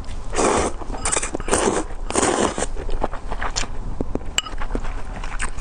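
Close-miked eating sounds from a bowl of luosifen (river snail rice noodles): four loud, noisy rushes in the first three seconds, as of mouthfuls being slurped in, then quieter chewing with small clicks.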